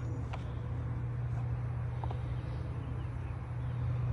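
Steady low hum of an idling engine, with a couple of faint clicks.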